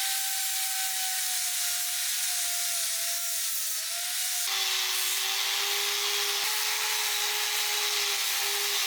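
Electric power tool running against the workpiece: a steady motor whine over abrasive hiss, as when sanding or brushing off rust. About four and a half seconds in it switches abruptly to a lower, steadier note with harsher hiss.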